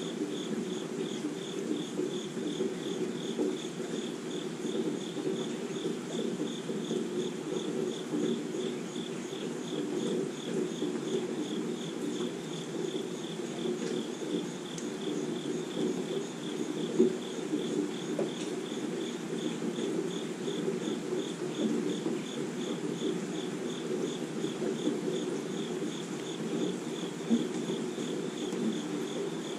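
Light rain falling on trees and grass, a steady soft hiss. An insect chirps over it in an even, high-pitched pulse of about three chirps a second. A couple of single drips tap near the middle and near the end.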